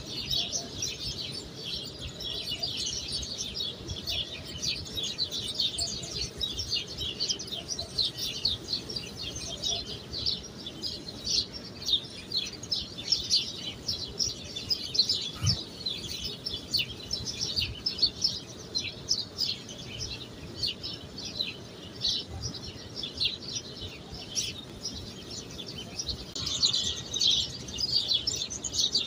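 Birds chirping in a dense, continuous chorus, with one soft knock about halfway through.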